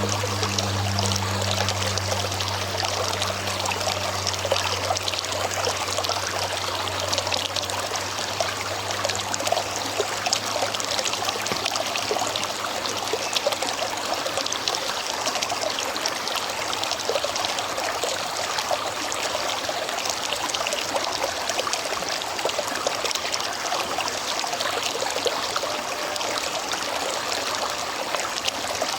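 River water flowing steadily. A low hum is heard at the start and fades out within the first few seconds.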